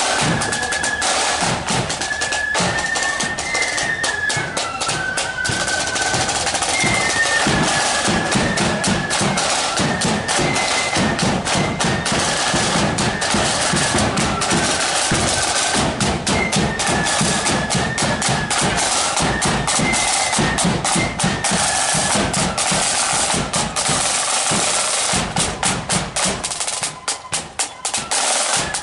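Marching flute band playing a tune: flutes carry a high melody over rolling snare drums and a bass drum beat, the bass drum dropping back near the end.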